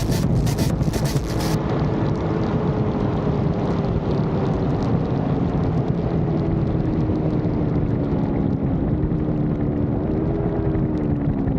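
Honda CBR1000RR's inline-four engine running under way, its pitch falling slowly as the bike eases off, then rising a little near the end, with steady wind rush over it.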